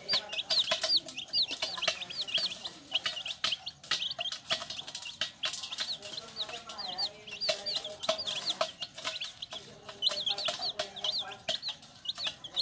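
Baby chicks peeping continuously: many short, high-pitched peeps, several a second, over lower chicken clucking, with scattered sharp clicks.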